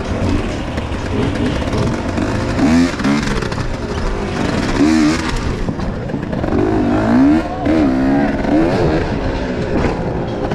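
Enduro motorcycle engine revving up and down over and over, its pitch rising and falling in quick swells.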